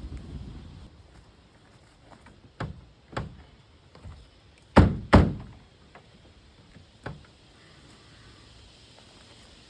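A stuck car hood being yanked and banged on: a series of dull metal thunks, the loudest two close together about five seconds in, as the hood latch refuses to release.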